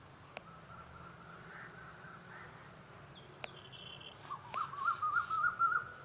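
Birds calling: a faint wavering call early on gives way to a louder, warbling call in the last second and a half, the loudest sound, over a low steady hum, with three sharp clicks.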